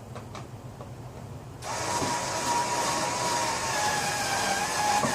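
A small electric power tool's motor starts about a second and a half in and runs steadily with a high whine that sags slightly in pitch.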